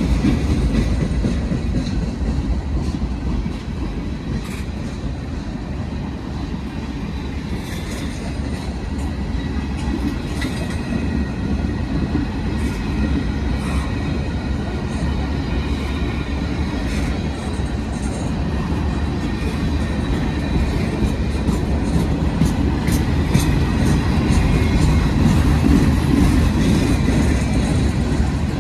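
A train running on the rails: a steady heavy rumble with scattered sharp clicks of wheels over the track and faint high squealing tones. It eases a little a few seconds in, then grows louder toward the end.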